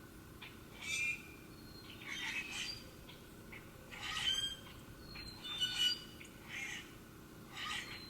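Birds calling with short, harsh calls, about six of them, one every second or so.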